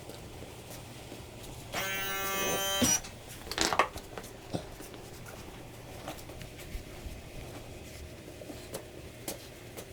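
A workshop tool gives a steady whine for about a second, followed by a few sharp metallic clicks and clanks.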